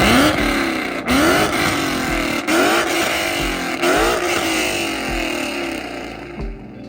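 S550 Ford Mustang's V8 with long-tube headers, a catless X-pipe and a Borla ATAK exhaust, revved in four blips about a second and a quarter apart, each climbing and dropping back to idle. The revs fade somewhat toward the end.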